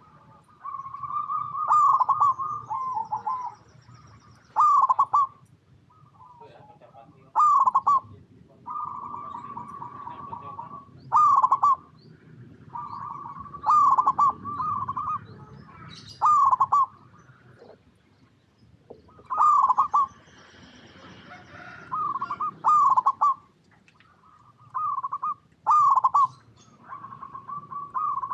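Zebra dove (perkutut) singing: short phrases of trilled, staccato coos repeated every two to three seconds.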